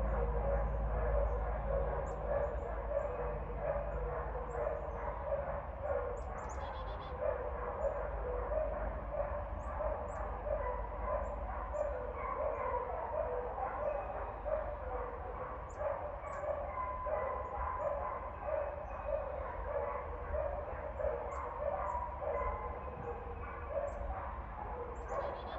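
A dog barking over and over in a steady, even run of about two barks a second.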